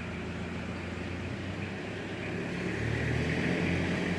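A steady low engine-like hum that grows louder about two seconds in.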